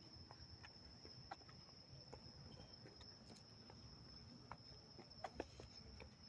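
Near silence, with a faint, steady high-pitched insect trill, like crickets, running throughout and a few soft scattered ticks.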